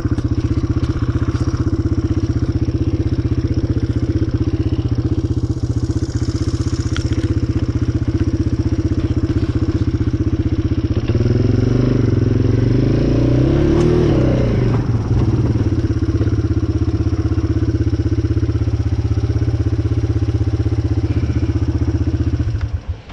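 A vehicle engine running steadily as it travels. About halfway through, its pitch rises and then falls as it speeds up and slows. Near the end it is switched off suddenly.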